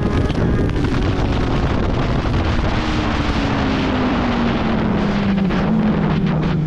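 Motorcycle engine running under heavy wind buffeting on the microphone, its note falling slowly as the bike slows down.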